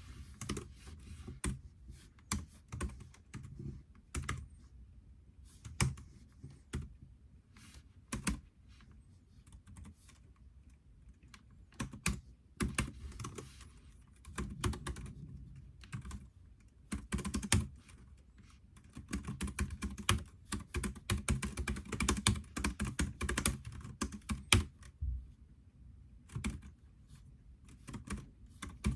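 Typing on a computer keyboard: runs of quick key clicks broken by short pauses, densest in the second half.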